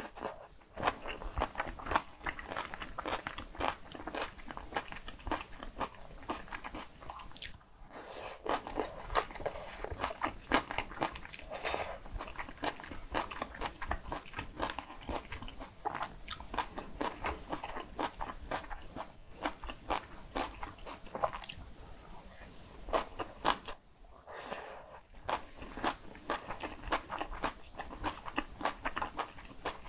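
Close-miked chewing of cockle and raw-radish bibimbap: a dense run of small wet crunches, smacks and clicks, with a short pause about eight seconds in and another near the end.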